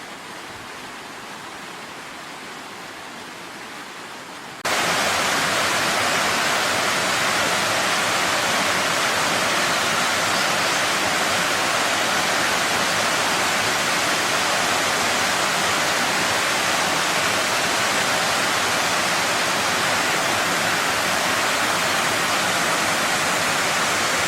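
Mountain valley stream rushing steadily. It jumps suddenly louder and brighter about five seconds in and stays steady after that.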